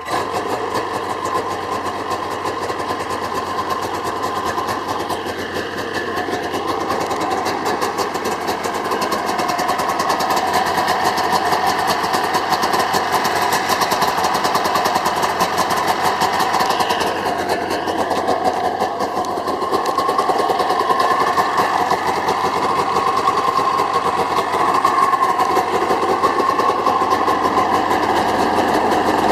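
1992 Polaris Indy 500 EFI snowmobile's two-stroke twin engine firing up from cold and running steadily at idle, growing a little louder about ten seconds in.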